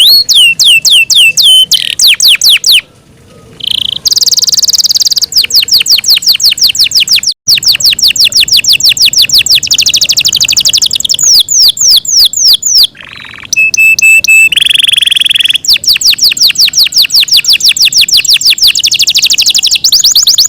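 Yorkshire canary singing loudly: long fast trills of rapidly repeated falling notes, broken by two short pauses, with a held whistled note and a brief buzzy phrase about two thirds through.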